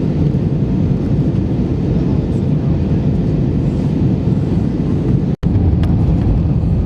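Steady low rumble of an Airbus A319-111 cabin in flight, from its CFM56 engines and the airflow over the fuselage, heard from a window seat. There is a momentary break to silence about five seconds in.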